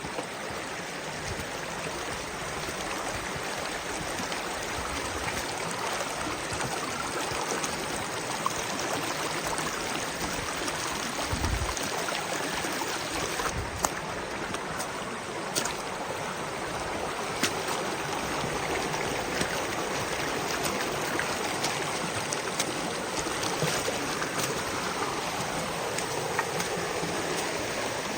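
Creek water rushing steadily over rocks, with a few sharp clicks scattered through it.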